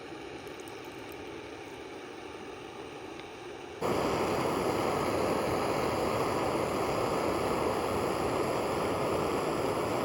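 Steady rushing noise with no separate events, jumping abruptly louder about four seconds in.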